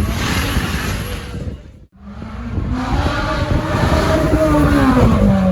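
Supercar engine running loud, cut off briefly about two seconds in; after the break its pitch climbs and then falls away over a couple of seconds.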